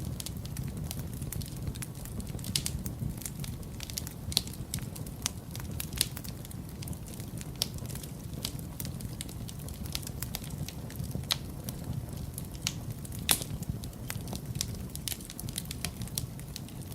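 Wood fire burning in a fireplace: a steady low rumble of flames with frequent irregular crackles and sharp pops, the loudest pops about six and thirteen seconds in.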